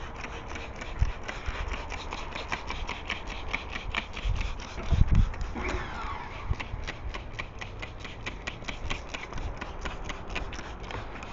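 A stiff brush scrubbing an engine bay in quick, even strokes, about five a second, with a few low bumps about one and five seconds in.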